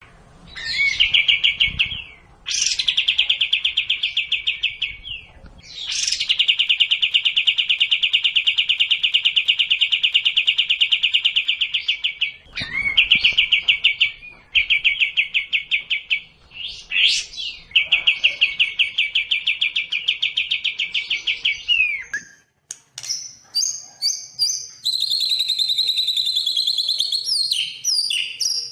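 Songbird song from a bird-song training recording: long, very fast trills held for several seconds at a time with short breaks. About three-quarters of the way through, it turns to a run of varied, higher chirps and whistled notes.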